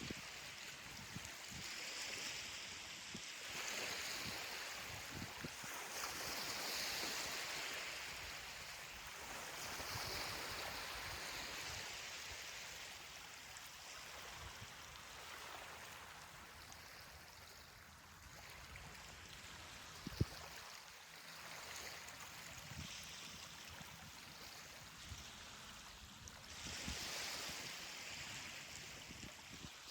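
Ocean surf washing onto a beach: a hiss of breaking waves that swells and fades every few seconds. There are scattered low thumps and one sharp click about twenty seconds in.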